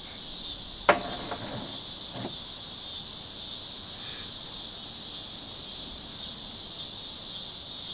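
Steady, even chorus of insects. A single sharp click about a second in.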